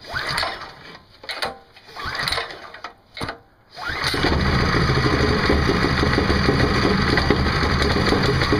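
Predator 6.5 hp single-cylinder four-stroke engine cold-started with the recoil pull cord: several short pulls, then it catches about four seconds in and runs steadily on full choke.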